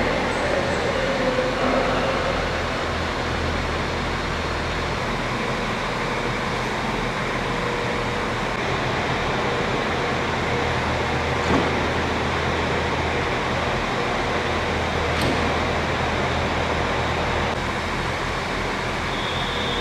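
Steady rumble of city road traffic, with no siren sounding.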